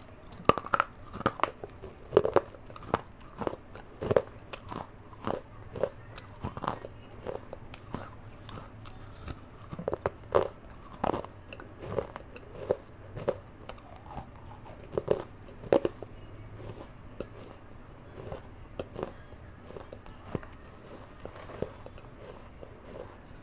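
A person chewing bitten-off pieces of a fired clay pot (matka), with many sharp, irregular crunches, one to three a second.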